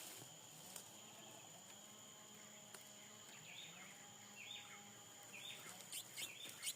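Near-quiet background with a steady high insect-like tone. About halfway through, a small bird gives a few faint, short chirps that come closer together near the end.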